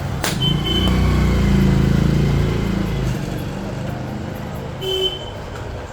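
A motor vehicle passing close by, its engine rumble swelling and fading over about three seconds, with a sharp click at the start and brief high squeaks, one early on and one near the end.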